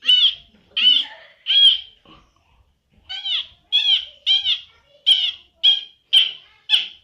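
A run of about ten short, high, squeaky 'towet' calls, each an arching squeak. They come roughly every half-second or so, with a one-second pause about two seconds in. The sound is produced in a 'towet-towet' body-sound act in which the squeaks are claimed to come from the performer's own hand and body movements.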